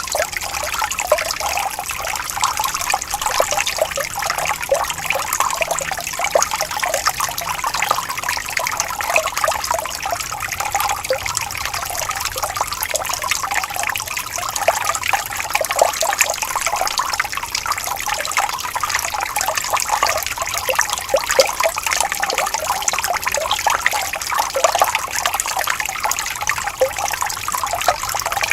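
Small stream of water trickling and babbling steadily, with constant small splashes.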